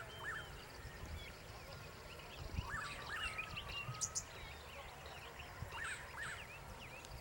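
Several wild birds calling over a steady low rumble: repeated short chirps, with pairs of quick upward-sweeping notes at the start, about a third of the way in, and again near the end.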